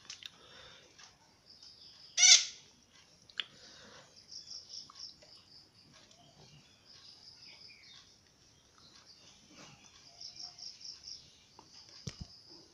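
Bird chirping: a high note repeated in quick trills several times over, with one loud, short call about two seconds in. A soft knock comes near the end.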